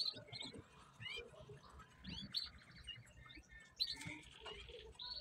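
Small birds chirping: many short, quick chirps with a couple of rapid trills.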